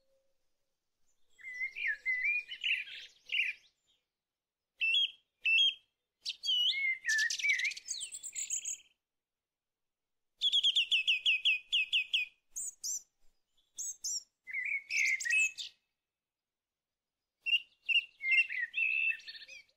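A songbird singing in short, varied phrases of chirps and whistles with brief pauses between them, including a fast trill of repeated chirps about halfway through.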